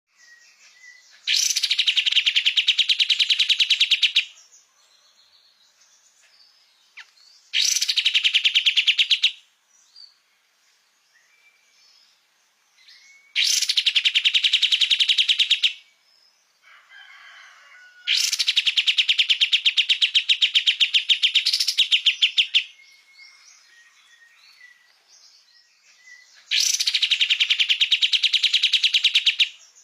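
Kapas tembak songbird in full song: five bouts of a very fast, evenly pulsed trill, each lasting two to four seconds with short pauses between, and faint softer chirps in the gaps.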